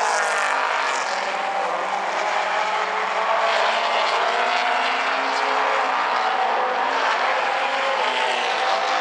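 Late model stock cars racing at speed on a short oval, several engines running together with overlapping pitches that rise and fall as the cars pass through the corners and down the straights.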